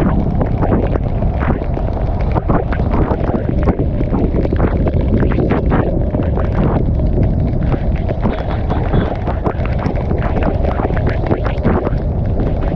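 Wind rushing and buffeting over a GoPro action camera's microphone on a moving motorcycle, a loud steady roar with irregular gusty crackles.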